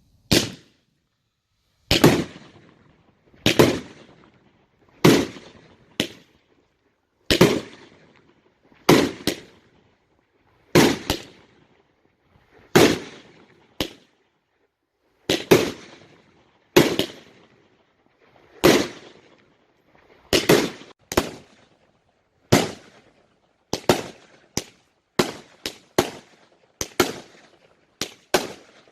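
Fireworks going off in a steady series of sharp bangs, each dying away in a short echoing tail. At first one comes about every second and a half; near the end they come faster, about two a second.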